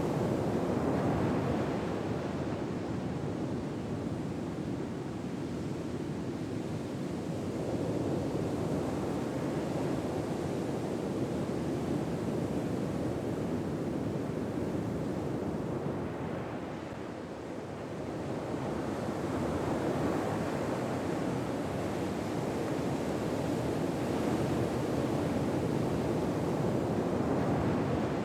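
Ocean waves washing ashore, a steady hiss of surf that slowly swells and eases every several seconds, with a softer lull a little past the middle.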